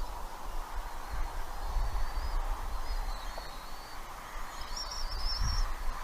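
Faint, thin, high bird chirps, once about two seconds in and again about five seconds in, over a steady low wind rumble on the microphone.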